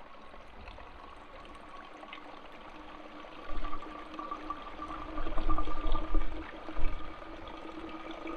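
Water trickling and pouring from a squeeze-bag water filter into a bottle, with a stream running behind. A few low rumbling bumps hit the microphone from about three and a half seconds in.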